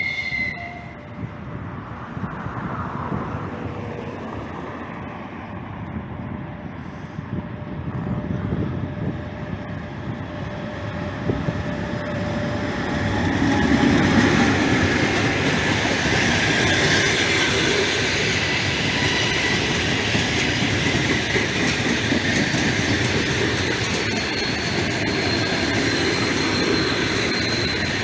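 Passenger train rolling past on the rails: a steady rumble of wheels and carriages that grows louder about halfway through and stays loud.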